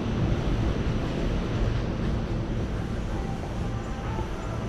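Steady low rumble of a rail station platform, with faint steady tones coming in about three seconds in.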